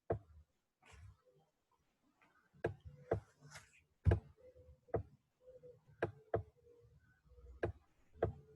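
Scattered sharp clicks and knocks, about nine of them at irregular intervals, with a faint hum in the background.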